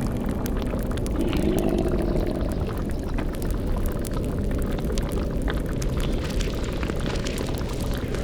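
Layered spooky ambience: a deep steady rumble under dense crackling and bubbling, like a boiling cauldron beside a fire, with a brief low eerie swell near the start.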